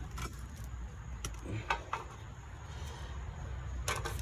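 A few light clicks and knocks of clutch parts being handled, over a steady low rumble, with a cluster of clicks near the end.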